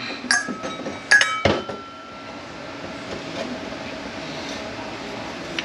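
Steel parts of a Mercedes 722.9 automatic transmission clinking together as they are handled, a few sharp clinks in the first second and a half, one ringing on briefly.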